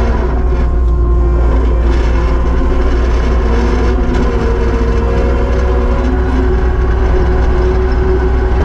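Kubota SVL75-2 compact track loader's diesel engine running steadily while working, a deep drone with a higher tone over it that wavers in pitch through the middle.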